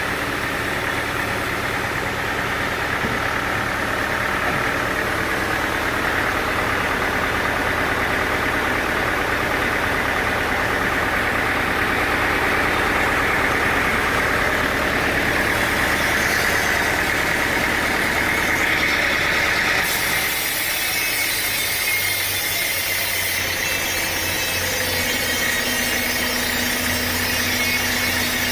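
Sawmill machinery running steadily, a continuous engine-like noise; about twenty seconds in the sound changes, the low rumble dropping away as a higher hiss comes up.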